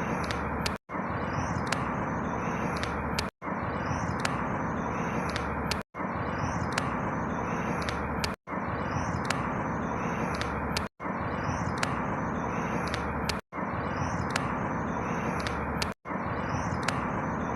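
A short outdoor ambience recording of a steady rushing hiss with faint high bird chirps, looped. It repeats the same way about every two and a half seconds, and each repeat is broken by a brief dropout to silence.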